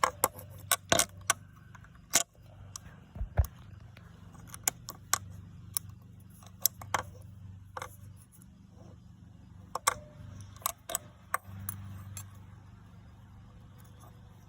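Small metal parts and hand tools clicking and clinking irregularly, a dozen or more sharp knocks, while pistons and rings are fitted to a snowmobile engine. A low steady hum runs underneath.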